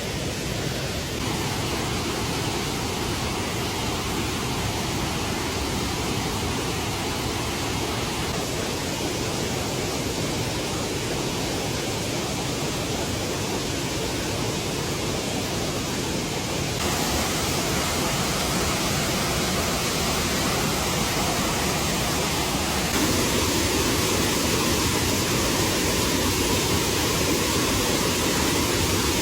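Steady rushing noise of water, rain or a running stream, with no distinct events. It gets abruptly louder about two-thirds of the way in, and again a few seconds later.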